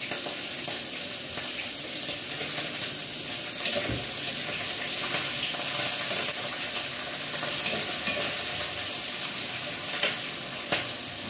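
Chopped onion and green chillies frying in hot oil with mustard seeds and dry chillies, a steady sizzle as they are stirred in the pan. A few light clicks of the spatula against the pan, one about four seconds in and two near the end.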